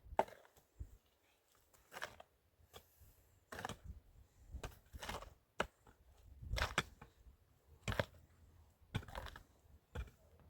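Irregular knocks and clacks, about one a second, with quiet between them.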